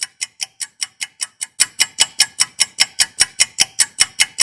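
A ticking clock sound effect, about five even ticks a second, getting louder about one and a half seconds in, marking time passing while waiting.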